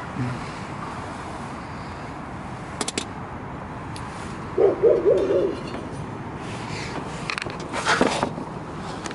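A short, low, wavering hooting call about halfway through, with a few sharp clicks and knocks before and after it.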